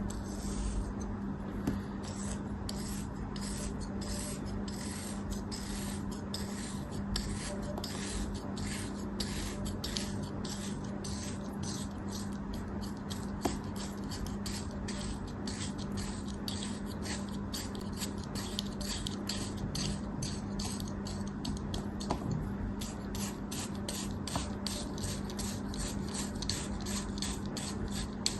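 A knife scraping in quick, even strokes, about two or three a second, over a steady low hum.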